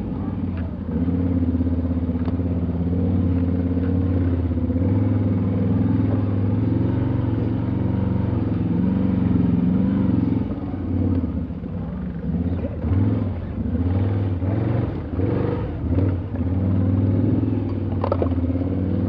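Off-road 4x4's engine running steadily under way. After about ten seconds the engine note changes and wavers, with scattered knocks and rattles as the vehicle works over rough, muddy ground.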